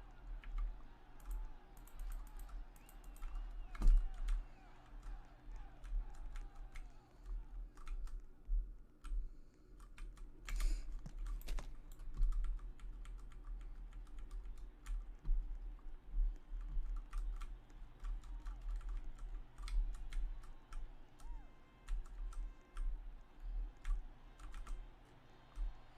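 Irregular run of light clicks and taps, with frequent dull low thumps between them.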